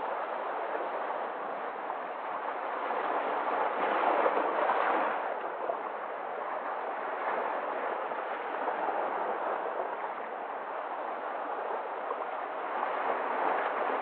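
Sea waves breaking and washing ashore, a steady rush of surf that swells into a louder surge about four seconds in.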